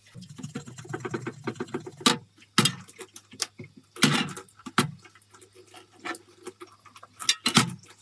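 Hand work on small metal tool parts: rapid light clicks and scrapes, then several sharp knocks of parts or tools set down or struck, over a steady low hum.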